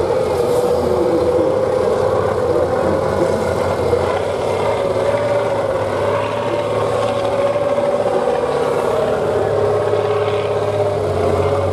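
Competition trial truck's engine running loudly and steadily, its pitch wavering gently up and down.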